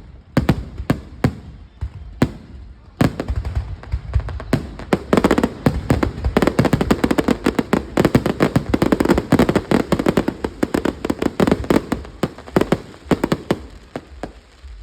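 Fireworks going off: a few separate sharp bangs, then from about three seconds in a dense, rapid crackle of many reports that lasts almost to the end.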